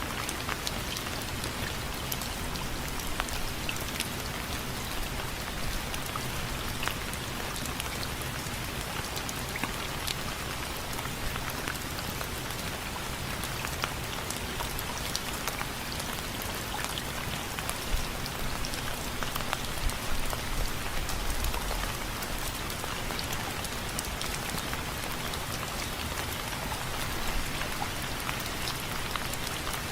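Steady rain, its drops tapping on window frames in a dense patter, with a few louder taps about two-thirds of the way through.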